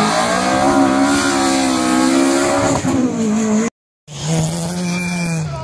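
Rally car engine held at high revs through a corner, the pitch falling as the throttle comes off about three seconds in. The sound cuts out for a moment at an edit, then another rally car's engine runs at high revs and drops in pitch near the end.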